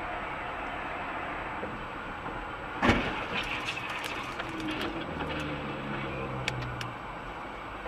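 Car traffic noise with one loud crash about three seconds in, followed by scattered sharp clicks and rattles.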